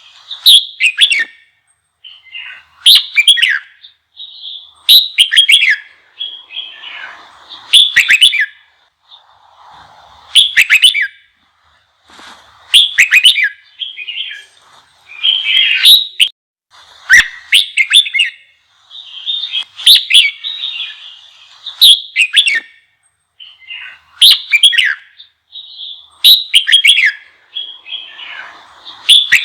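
Red-whiskered bulbul singing, loud short whistled phrases repeated about every two seconds. It is a song of the kind played to provoke young bulbuls into singing back.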